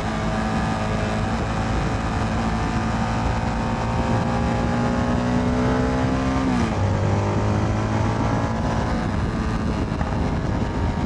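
Motorcycle engine under acceleration, its pitch climbing steadily, then dropping sharply about two-thirds of the way through as the rider shifts up a gear, and climbing again, with wind rushing past.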